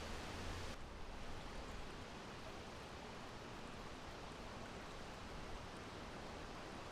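Steady wind, a soft, even breeze-like hiss with no gusts or distinct events. A little under a second in, the sound turns slightly duller as the highest hiss drops away.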